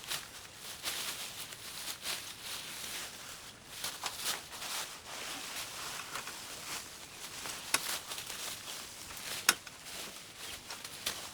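Irregular rustling and crackling of brush and vines being cleared by hand, with two sharp snaps in the second half.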